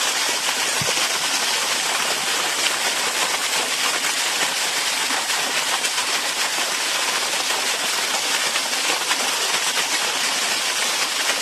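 Steady rushing water: an even hiss with fine crackle that does not change.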